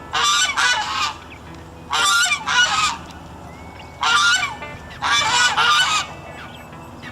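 Geese honking in four short bouts of two or three honks each, a second or two apart.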